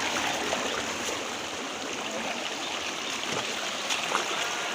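Water of a rocky stream flowing steadily.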